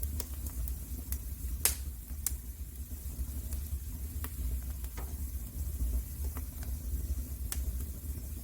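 Wood fire burning in a fireplace: a steady low rumble of the flames with scattered sharp crackles and pops, the loudest pop about a second and a half in.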